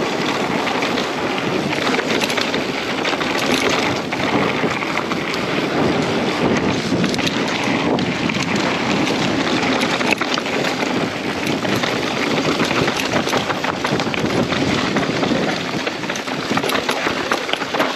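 Wind rushing over the camera microphone, with steady tyre noise and many small rattles and clicks: a mountain bike being ridden fast down a dirt trail.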